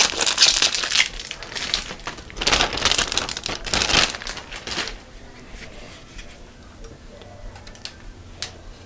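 Plastic shrink wrap being torn and crinkled off a new car radio's faceplate, in two spells of loud crinkling, then a few small clicks.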